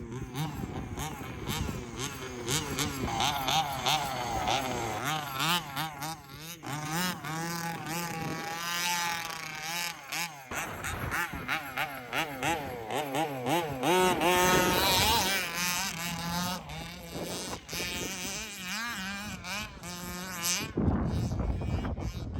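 The 29cc two-stroke engine of a gas-powered 1/5-scale HPI Baja 5B RC buggy, revving up and down over and over with a wavering pitch, above a steady lower drone.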